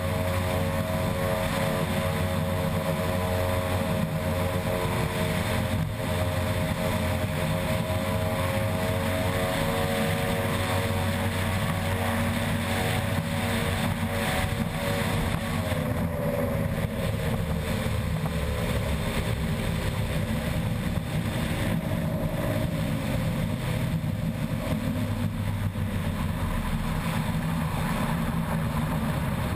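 Outboard engine of an unlimited-class ski race boat running hard at a steady pitch over a constant rushing noise. About halfway through, the engine note drops and keeps falling gradually as the boat backs off speed.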